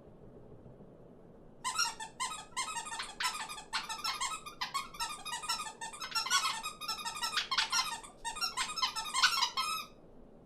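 Small birds chirping and squeaking in a rapid, high-pitched chatter. It starts about two seconds in and stops shortly before the end.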